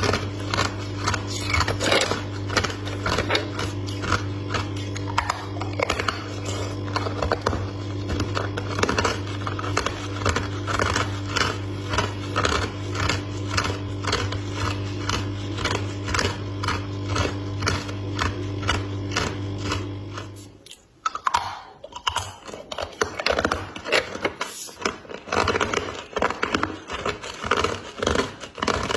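Freezer frost being bitten and chewed close to the microphone: a rapid run of crisp, dense crunches. A steady low hum underneath cuts off about two-thirds of the way through, and after a brief lull the crunching starts again.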